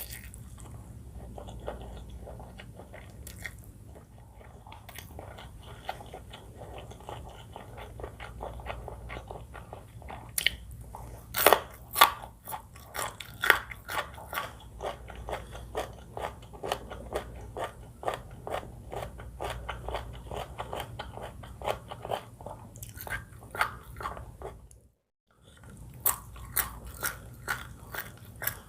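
Close-miked chewing of noodles and curry, dense with small wet clicks and crisp crunches. A run of louder, sharper crunching bites comes about ten to fourteen seconds in. The sound breaks off for a moment near the end.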